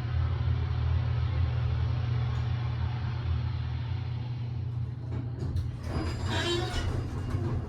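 Older Otis elevator running, a steady low hum and rumble. About five seconds in come a few sharp clicks, followed by a short, louder rattling noise near the end.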